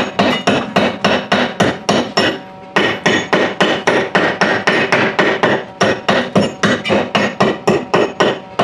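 Steel chisel and hammer chipping slag off a fresh weld: rapid, even metal-on-metal strikes, about four a second, with a brief pause about two and a half seconds in.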